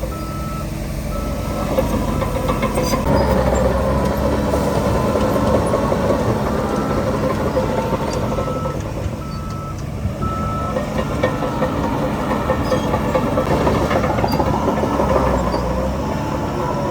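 Heavy diesel construction machinery running steadily, its engine pitch rising and falling at times. A reversing alarm beeps a little over once a second at the start, stops, then beeps again for several seconds in the middle.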